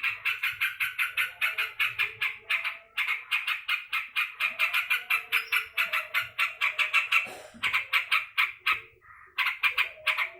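Yellow-vented bulbul (trucukan) giving rapid, harsh chattering calls, about five or six a second, the excited chatter of an agitated bird. The calls come in long runs, with a short break about three seconds in and another shortly before they stop near the end.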